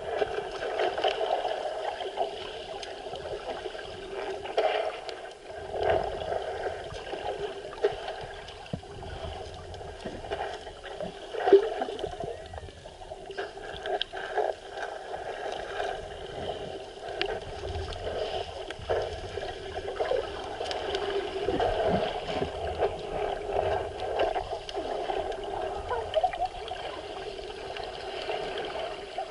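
Sea water sloshing and gurgling, muffled as heard by a camera held in the sea, with scattered small clicks.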